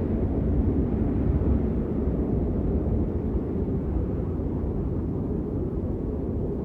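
Steady rain: a dense, even noise that is heaviest in the low end, with a deep rumble and little high hiss.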